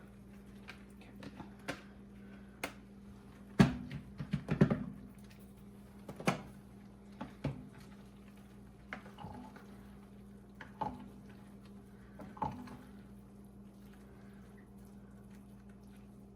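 Kitchen handling sounds: scattered knocks and clinks of utensils, cans and cookware, with a quick cluster of knocks about four seconds in and single ones after it, over a steady low hum.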